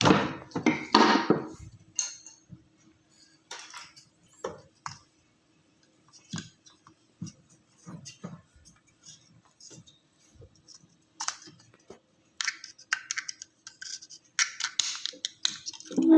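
Irregular clicks, taps and short scrapes of hand tools working the plastic housing of an air-cooler water pump as its bottom cover is pulled off, loudest in the first second or two, over a faint steady hum.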